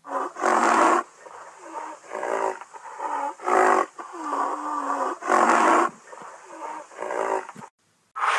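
A large animal roaring in a series of about five short calls, each under a second long.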